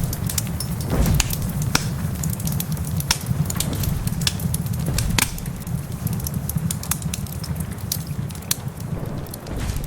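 Crackling fireplace: irregular sharp pops and snaps over a steady low rumble, with rain pattering beneath.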